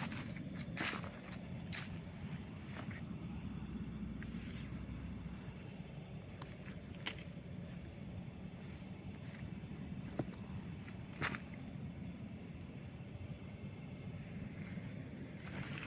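Insects calling: trains of short high chirps, about five a second, come in bouts every couple of seconds over a steady high-pitched insect drone. A few sharp clicks, like twigs snapping or footsteps, fall in between.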